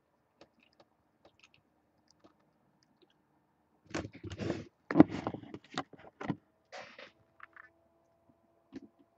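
Near silence, then from about four seconds in a few seconds of clicking and knocking handling noise, loudest about a second later, followed by scattered faint ticks and a faint steady hum.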